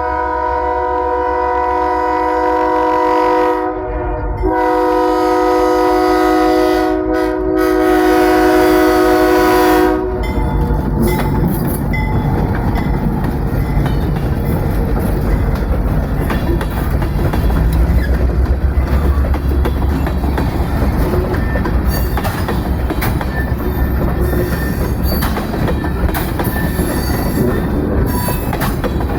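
EMD GP10 diesel locomotive sounding its multi-note air horn in two long blasts, the second longer, with the diesel engine rumbling underneath. After about ten seconds the horn stops and the locomotive rolls past with engine rumble, rail noise and wheels clicking over rail joints.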